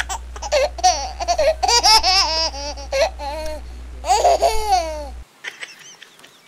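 High-pitched giggling laughter, like a baby's, in quick runs with the pitch sweeping up and down, over a steady low hum. Both cut off suddenly about five seconds in.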